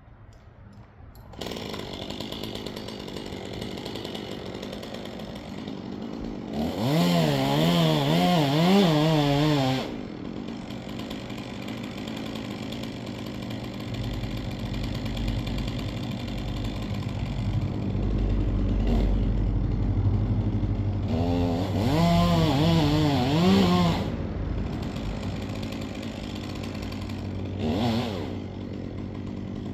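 Chainsaw engine comes on about a second in and runs steadily. It is revved up twice with wavering pitch, with a deeper low rumble between and under the second rev, and gives a short blip of revs near the end.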